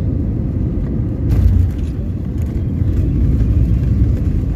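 Airliner cabin noise during landing: a steady low rumble of engines and wheels on the runway, with a single thump a little over a second in.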